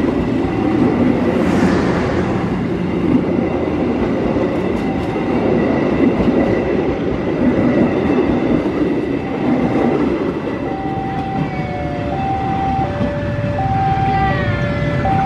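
Passenger train carriages rolling past close by, the wheels rumbling steadily on the rails. Near the end a two-note tone starts up, alternating between a higher and a lower note about every two-thirds of a second.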